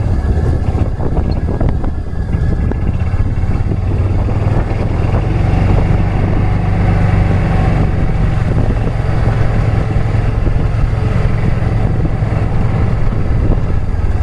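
A small motor vehicle's engine running steadily while it drives along, with rough road and wind noise over it.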